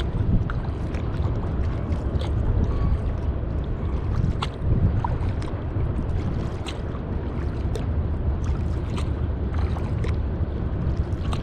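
Kayak paddle dipping and splashing in the water with short sharp ticks about once a second, over a steady low rumble of wind on the microphone.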